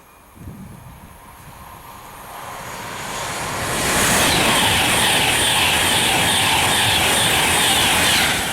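Virgin Trains Class 390 Pendolino electric train approaching and passing through the station at speed. A rushing wheel-and-air noise builds over about three seconds, then stays loud and steady as the carriages go by.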